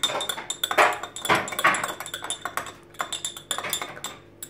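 A spoon stirring a glue-and-water mix in a bowl, with quick, irregular clinks and scrapes of the spoon against the bowl that stop near the end.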